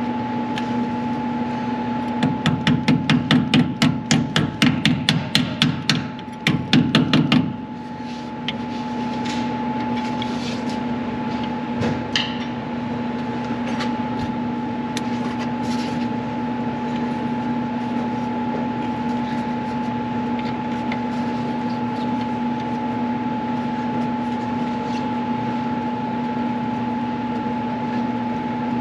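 A rapid run of hammer blows, about five a second, starting about two seconds in and stopping after about five seconds, over a steady machine hum that runs throughout.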